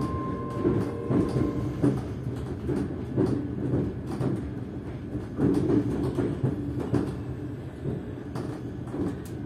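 Class 385 electric multiple unit running at low speed, heard from inside the carriage: a steady low hum from the traction motors, with a thin higher tone for the first second and a half. Short knocks from the wheels passing over rail joints and points are scattered throughout.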